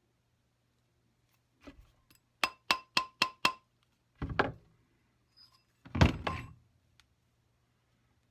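Mallet blows bending a 14k gold ring band around a ring mandrel: five quick ringing taps at about four a second, then two heavier thuds, the second the loudest.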